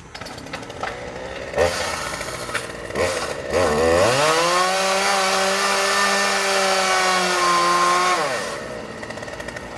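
An engine is revved up hard about three and a half seconds in and held at a steady high speed for about four seconds, then let back down. A noisy start comes first, about a second and a half in.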